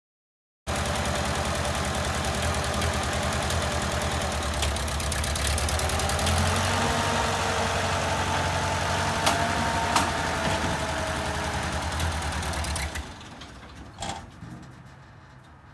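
A vehicle engine running steadily, which stops abruptly near the end and is followed by a single knock.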